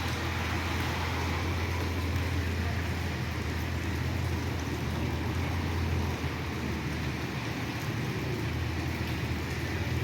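Rain falling steadily, an even hiss with a steady low rumble underneath.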